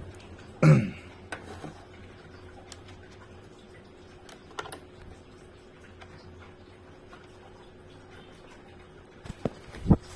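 Faint, scattered clicks and taps of multimeter probes being set on the pins of an air-conditioner circuit board, with a brief wordless vocal sound about a second in and a couple of low knocks near the end.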